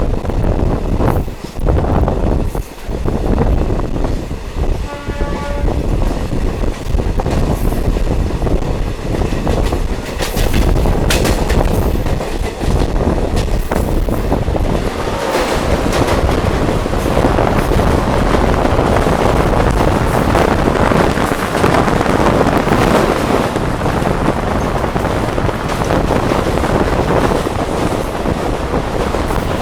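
Diesel multiple unit train running along the track, with a short horn note about five seconds in. The running noise grows louder from about halfway through.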